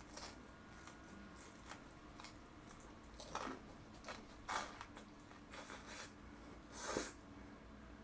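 Faint close-mouthed chewing of a mouthful of fried food: soft wet clicks and smacks, with a few louder ones in the second half.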